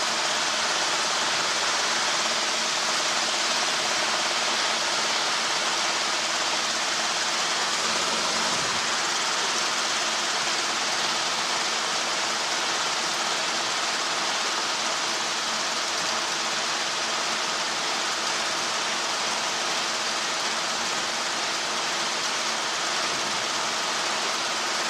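Helicopter engine and rotor noise heard through the cockpit intercom: a steady hiss with a low, even hum underneath.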